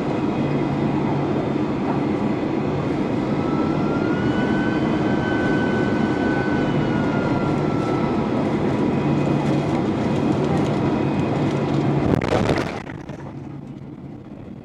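Steady running noise heard from inside a moving vehicle, with a low hum and a faint whine that rises and falls. It ends in a brief burst about twelve seconds in, after which the sound drops sharply to a much quieter hum.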